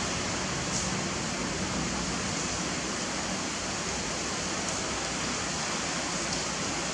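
Steady rain falling outside, an even, unbroken hiss.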